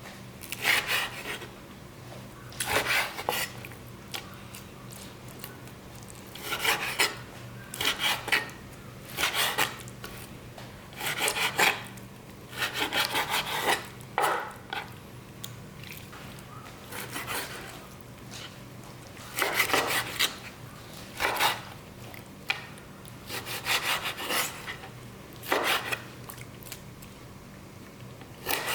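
Repeated rubbing or scraping strokes, each about half a second to a second long, coming irregularly a second or two apart over a faint steady hum.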